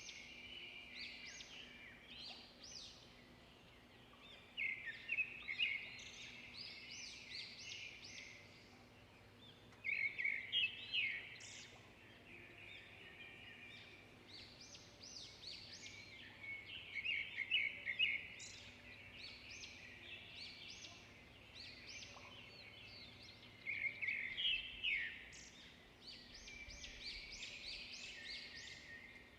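Songbirds chirping and singing in quick clusters of short, high notes and trills, with a few louder phrases, over a faint steady background.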